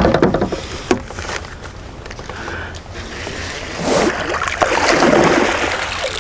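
Water sloshing and splashing around a kayak, with scattered clicks and knocks, while a hooked bull red drum is fought alongside. There are louder swells of splashing about four and five seconds in.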